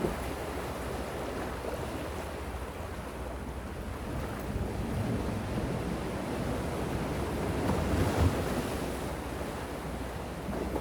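Gentle sea waves washing in steadily, with wind buffeting the microphone and a brief low thump about eight seconds in.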